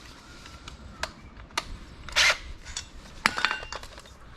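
Tools being handled while fitting hood pins: several sharp clicks and a short scrape about two seconds in, then another cluster of clicks with a brief metallic ring.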